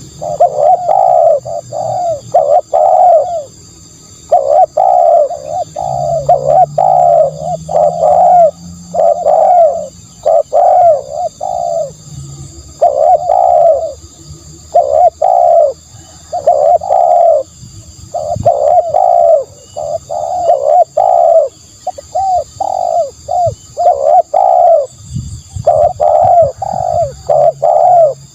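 Spotted dove cooing: a long run of soft, low coos in phrases of several notes each, one phrase after another with short breaks between them.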